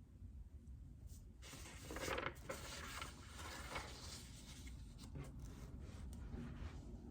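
Typing on a JJK84 mechanical keyboard with Outemu Silent Peach linear switches: a quick run of soft, muted keystrokes starting about a second in, densest in the middle, then a few separate key presses near the end.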